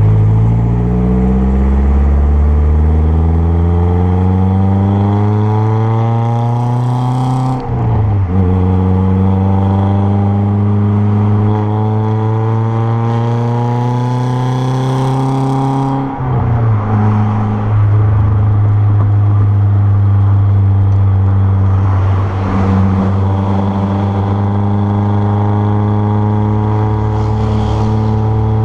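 Renault Clio 1.6 16v K4M four-cylinder engine with a straight-through 2-inch exhaust and K&N intake, pulling hard through the gears. The note rises, drops at a gear change about eight seconds in, climbs again more slowly, drops at a second shift around sixteen seconds, then holds a steady drone.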